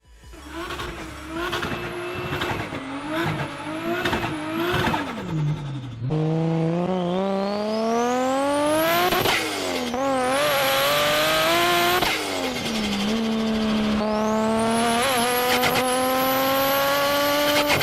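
Turbocharged car engine blipped several times, then accelerating hard through the gears. A high turbo whistle rises with the revs, and the pitch drops at each gear change, with a brief wavering flutter as the throttle closes at one shift.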